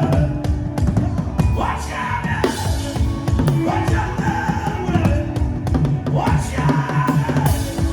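Drum-driven music: fast, dense drum strokes over a steady bass line, with a voice calling out in long sliding phrases about two, four and six seconds in.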